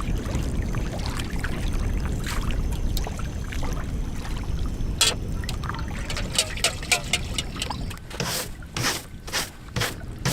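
Steady wind buffeting the microphone, a dense low rumble with light splashes and clicks over it. In the last couple of seconds a quick series of short noisy bursts comes about twice a second.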